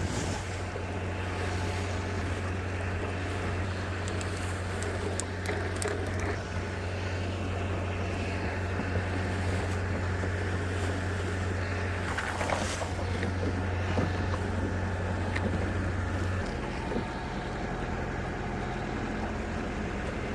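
Boat's motor running steadily under a hiss of wind and water; the engine's low hum changes about three-quarters of the way through.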